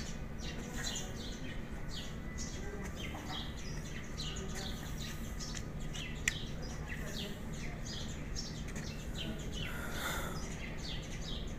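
Birds chirping over and over, several short high chirps a second, over a steady low hum. A single sharp click sounds a little past halfway.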